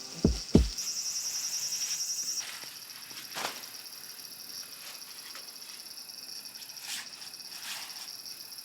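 Crickets chirping in a steady high trill, louder and more rapidly pulsing for a second or so near the start. Two low thumps come right at the beginning, and a few faint clicks later.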